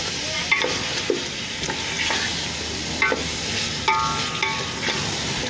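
Chicken, potato and pea masala sizzling as it fries in a metal pot, stirred with a spoon that scrapes and knocks against the pot several times over a steady hiss.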